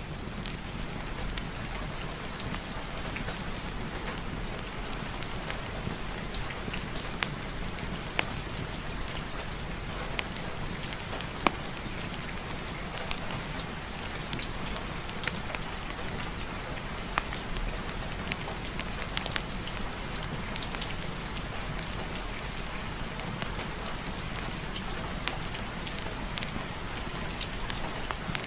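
Steady heavy rain falling, with scattered sharp ticks now and then over a continuous hiss.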